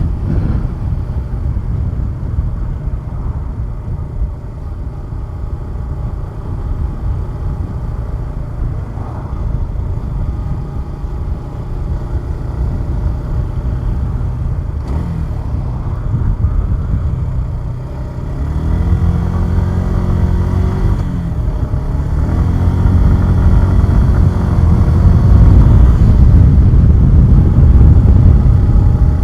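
Suzuki Gixxer 150SF's single-cylinder engine and wind rumble while riding. About two-thirds of the way in the engine note climbs as the bike accelerates, drops at a gear change, then climbs again and grows louder near the end.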